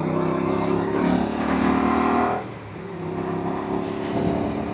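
Motorcycle engine running under way, an Aprilia RS 457's parallel twin. It pulls under throttle, then eases off about two and a half seconds in and runs on more quietly.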